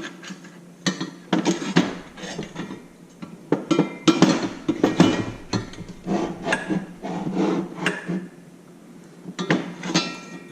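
Metal parts of a motorcycle wheel chock stand clanking and clinking as they are handled and fitted together: a string of irregular sharp knocks, some with a brief metallic ring.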